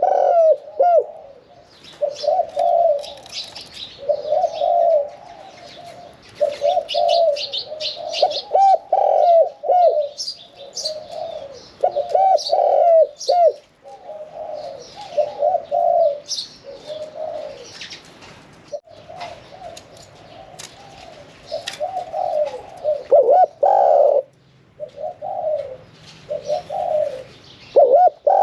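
Spotted dove cooing in repeated mid-pitched phrases, with high chirping from small birds scattered among the coos.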